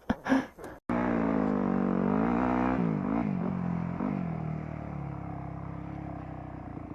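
Motorcycle engine running, its pitch rising and falling with the throttle, then easing down and growing quieter.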